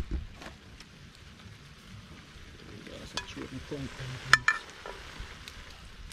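Curry crab sizzling and frying in a metal pot as the coconut milk cooks down into oil, with a few sharp metal clinks of the plate-lid against the pot about three and four seconds in.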